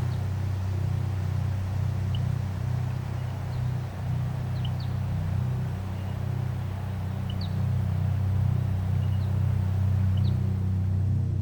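A steady low engine drone with a slight waver, and short high chirps scattered over it every second or two.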